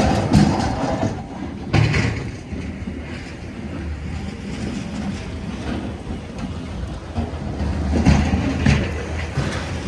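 Low, steady rumble of passing vehicles, with sharper louder bumps about two seconds in and again around eight seconds.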